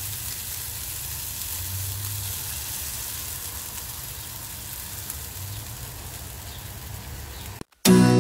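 Diced tomato and onion sizzling steadily in a frying pan, with beaten egg poured in about halfway through. The sizzle cuts off just before the end, and acoustic guitar music starts.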